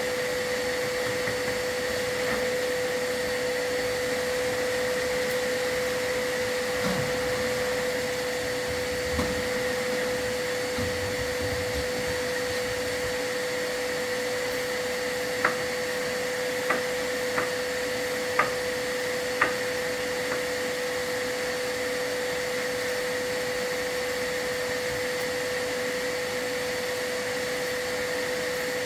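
A vacuum runs steadily with a constant hum, as is usual to catch soot while a fireplace is swept. About halfway through come a handful of sharp knocks.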